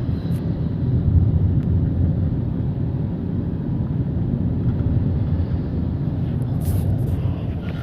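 Steady low rumble of road and engine noise inside the cabin of a moving Wuling Alvez.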